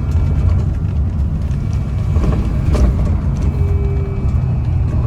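MAZ-203T trolleybus interior while running: a steady low rumble with a faint thin whine above it, and one sharp knock a little under three seconds in.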